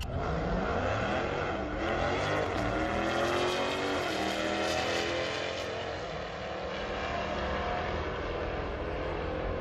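Drag race car engine at full throttle, accelerating hard down the strip, its pitch climbing steadily for several seconds and then holding.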